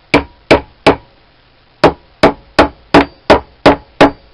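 Hammer tapping a screwdriver, driving its tip under a stuck part of a lathe tool post. Three sharp strikes, a pause of about a second, then a steady run of about three strikes a second.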